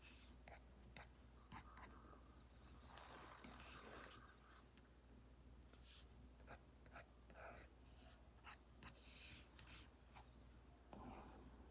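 Apple Pencil Pro tip drawing on an iPad fitted with a paper-like matte screen protector: faint, irregular scratchy strokes with a few short sharp taps.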